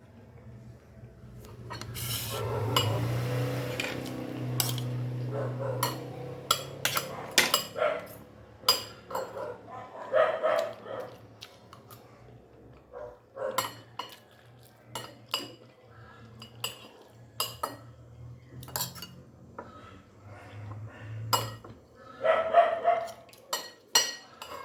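Cutlery clinking and scraping on a plate in many short, irregular clicks while eating, over a steady low hum. A dog barks a few times near the end.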